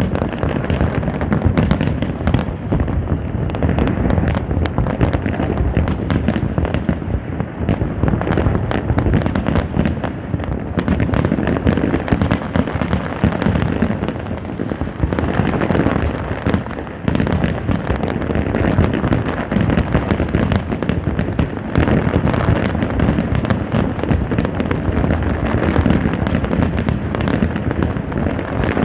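Fireworks display going off without a break: a dense run of cracks and bangs over a continuous low rumble of bursting shells.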